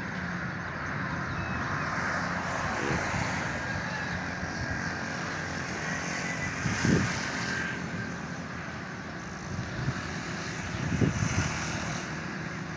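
Steady outdoor background rumble and hiss, with two brief low thumps about seven and eleven seconds in.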